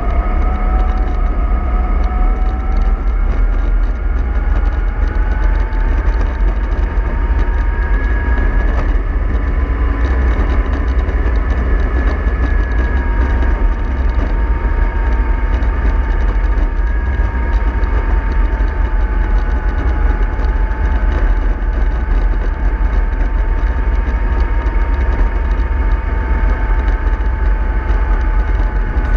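Remote-control bus running steadily: a motor whine that climbs slowly over the first several seconds and then holds level, over a constant low rumble.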